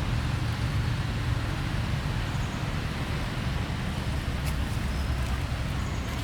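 Steady low rumble with an even hiss over it, unchanging throughout, and a faint click about four and a half seconds in.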